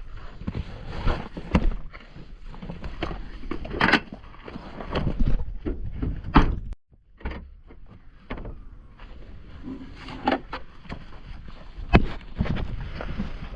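Wind rumbling on the microphone aboard a small boat, with scattered knocks and thumps; the sound drops out for a moment about seven seconds in.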